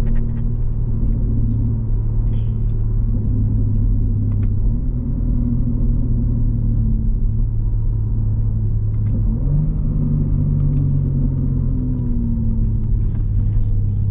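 BMW G80 M3's twin-turbo inline-six, fitted with an aftermarket single midpipe, droning steadily at low revs while driving. Its pitch steps up about nine and a half seconds in and eases back down a couple of seconds later.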